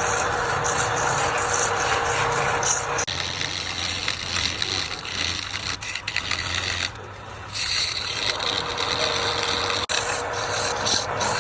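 Wood lathe running, with a steady motor hum under the continuous rasping of work against the spinning wood; the rasping changes character about three seconds in and briefly eases about seven seconds in.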